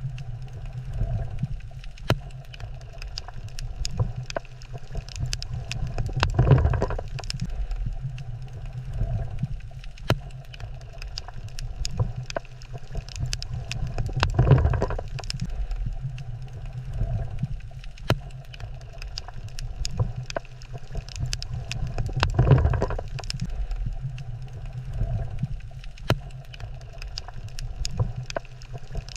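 Coral reef water ambience: a steady low rumble scattered with sharp clicks, with a louder gurgling surge about every eight seconds.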